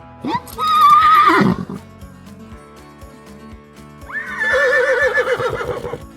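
A horse whinnying twice, each a wavering, quavering call lasting one and a half to two seconds, the first dropping low in pitch at its end. Soft background music plays throughout.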